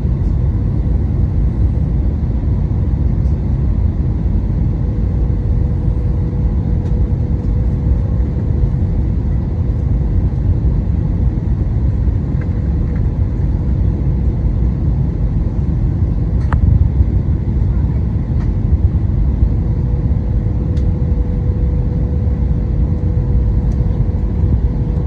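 Airliner cabin noise during the approach to landing: a steady low rumble of engines and airflow, with a faint steady hum over it and a single small click partway through.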